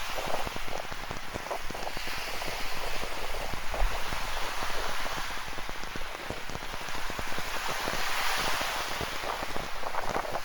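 Rain falling, with many close drops pattering, over the rush of ocean surf that swells up about eight seconds in.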